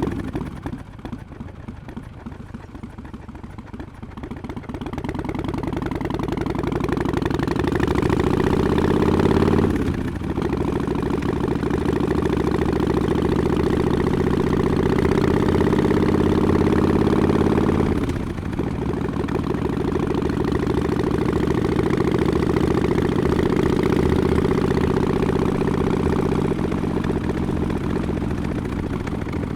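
Exhaust of a 2017 Harley-Davidson XL1200X Forty-Eight's air-cooled V-twin through Vance & Hines Short Shots pipes with quiet baffles. The revs drop to a low rumble at first, then the engine pulls, rising in pitch, with a brief dip for an upshift about a third of the way through and another about two-thirds through, and then runs steadily at cruising speed.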